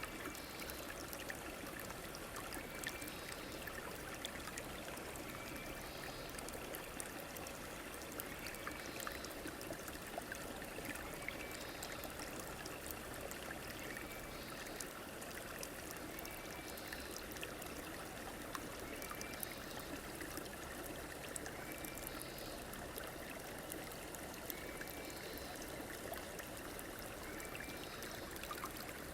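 A river or stream flowing steadily, an even rush and trickle of water, with a faint short chirp repeating every two seconds or so.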